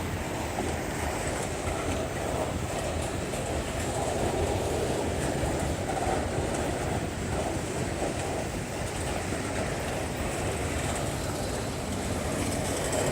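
Autorack freight cars of a slow freight train rolling past close by, a steady rumble of steel wheels on the rails.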